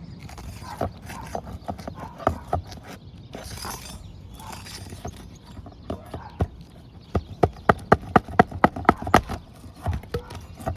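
Metal pry bar knocking and scraping as it is worked under an asphalt roof shingle to get at a staple that has pulled through, with scattered knocks, then a quick run of sharp strikes, about five a second, about seven seconds in.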